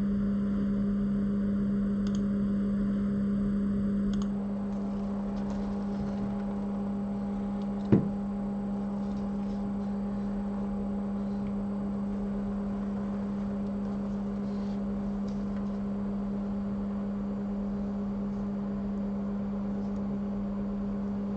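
Steady low electrical hum from bench repair equipment, dropping slightly in level about four seconds in, with a single short click about eight seconds in.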